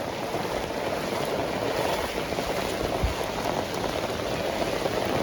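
Heavy tropical rain falling steadily, an even hiss with no let-up, with a brief low thump about three seconds in.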